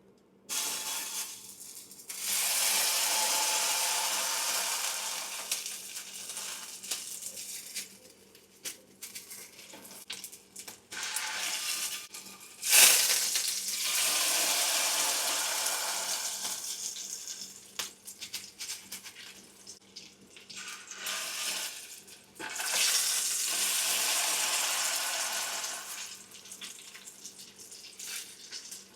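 Kitchen tap running in several spells of a few seconds each, turned on and off, with a sharp knock about halfway through.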